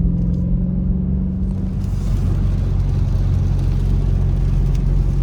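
Dodge Charger Scat Pack's 392 Hemi V8 running steadily at idle. About a second and a half in, the sound changes to the car under way: the engine is low beneath a steady hiss of rain and wet tyres.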